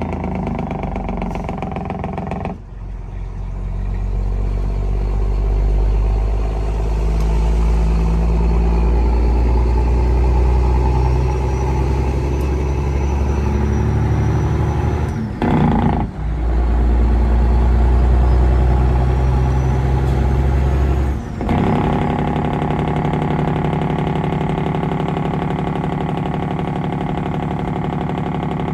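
Semi-truck diesel engine pulling under load through the gears, its note changing in steps, with brief drops in level at the gear changes about halfway through and again about three-quarters through. A thin high whine climbs between the shifts and falls away at each one.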